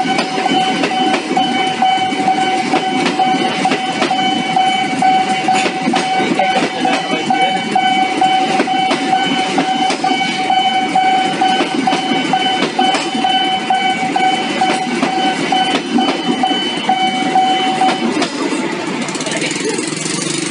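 Passenger train passing at speed, its wheels clattering over the rail joints in a dense run of clicks and rumble. A steady electronic level-crossing alarm tone rings over it and stops near the end.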